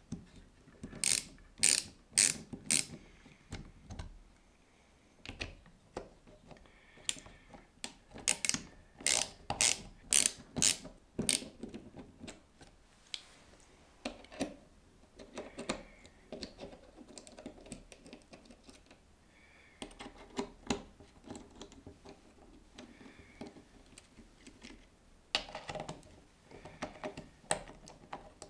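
Small hand tools and the plastic and metal parts of an LGB model locomotive's drive bogie clicking and rattling as it is taken apart. The sharp clicks come in short runs of several at a time, with quieter handling noise in between.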